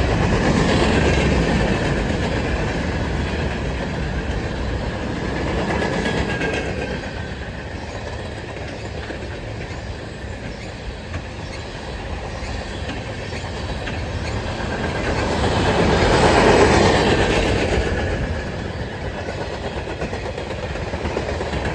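Freight cars of a garbage train rolling past, with wheels clacking over the rail joints as a steady rumble. The rumble swells loudly about three-quarters of the way through, then eases off near the end.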